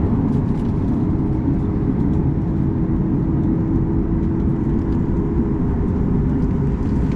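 Steady cabin rumble inside a Boeing 737 MAX 8-200 with its CFM LEAP-1B engines running while the aircraft taxis, with a constant low hum. A faint extra tone joins about a second in and fades out past the middle.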